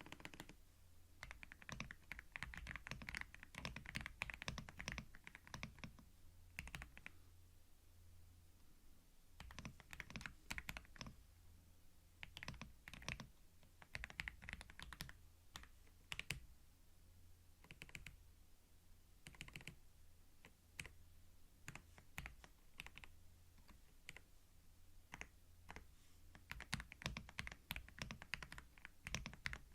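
Typing on a computer keyboard in bursts of quick key clicks with short pauses between them, recorded close and binaurally for ASMR.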